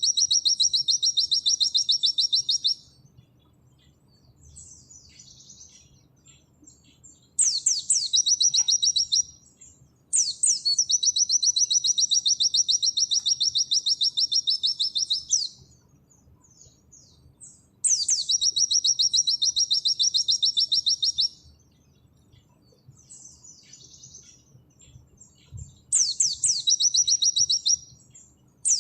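A white-eye (pleci) singing its 'nembak' song: loud phrases of fast, rapid-fire repeated high notes. Each phrase opens with a sharp downward sweep and runs two to five seconds. Softer twittering fills the gaps, about five phrases in all.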